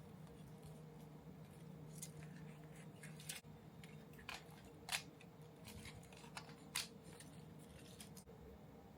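A handful of sharp, short snips and clicks from small hand tools working on plastic model-kit parts, the loudest two near the middle, over a steady low hum.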